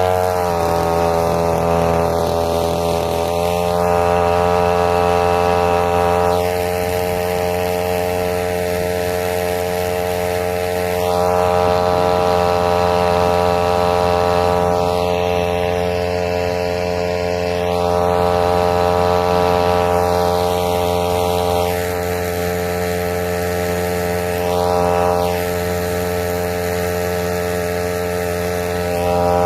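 Small outboard motor on a kayak running steadily under way, its pitch settling just after the start, with a hiss that swells and fades every few seconds.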